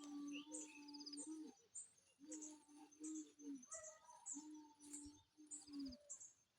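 Faint birdsong: scattered high chirps and tweets, with a low steady cooing phrase that repeats about every two seconds.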